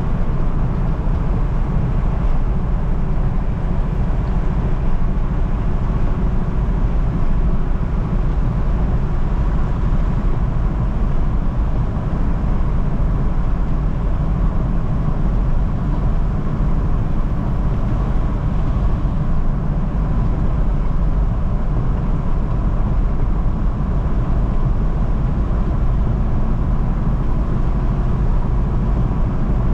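A moving road vehicle: steady engine and road rumble, mostly low-pitched, with a faint steady whine above it and no change in pace.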